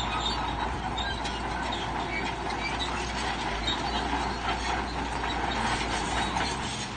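Crawler bulldozer working: its diesel engine running steadily, with the clanking of its steel tracks.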